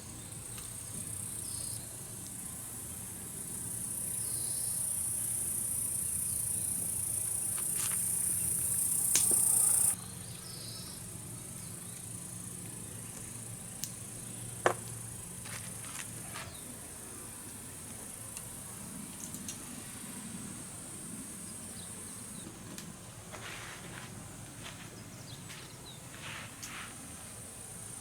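Insects chirring in a high-pitched steady chorus, growing louder over the first ten seconds, then dropping abruptly and carrying on more faintly. A few sharp clicks stand out, the loudest about halfway through.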